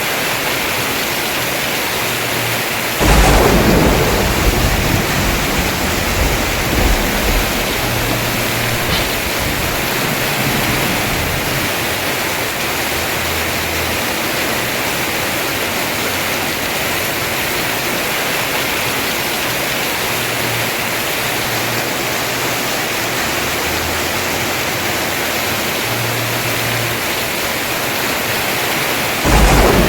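Heavy rain pouring steadily on a house roof, with a sudden thunderclap about three seconds in that rumbles on for a few seconds, and another thunderclap near the end.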